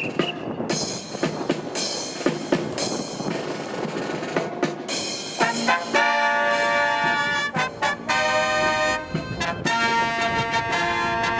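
Marching brass band playing a fanfare. For the first few seconds there are short drum hits and brass stabs, then from about five seconds in the trumpets and trombones hold long chords. Wind buffets the microphone throughout.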